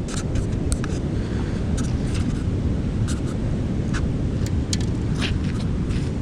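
Steady low outdoor rumble with scattered short, sharp clicks and ticks.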